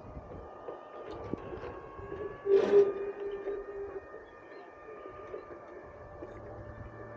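Sounds picked up on board a sailing A Class radio-controlled yacht: faint steady whining tones over a wash of noise. About two and a half seconds in comes a sudden loud knock, followed by a held humming tone lasting about a second and a half.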